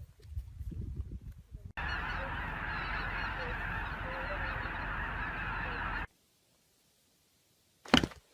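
A dense, steady chorus of many bird calls at once, like a flock honking, which starts and cuts off abruptly. It follows a low rumble and is followed by silence, then a single sharp click near the end.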